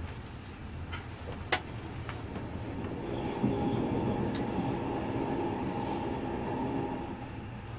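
Passenger train running on the rails, heard from inside the carriage: a steady rumble with a few sharp clicks in the first couple of seconds. About three seconds in it grows louder, with a humming tone, for roughly three and a half seconds, then eases back.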